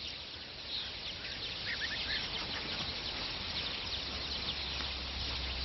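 Flock of rosy starlings calling, a few short chirps standing out over a steady wash of background noise, with a low steady rumble underneath that strengthens a little partway through.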